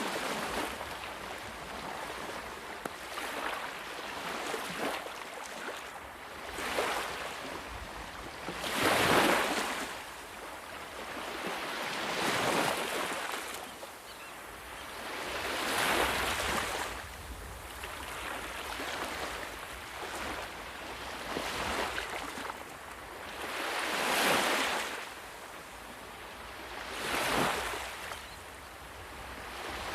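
Ocean waves breaking and washing up on a shore. Each wave swells into a rushing hiss and then fades, one every few seconds, and the surge about nine seconds in is the loudest.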